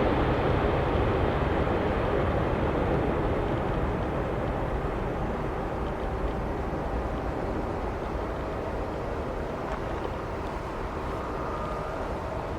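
Jet noise from a Boeing 747-8I's four GEnx-2B turbofans, a steady rumble that fades slowly as the airliner moves away.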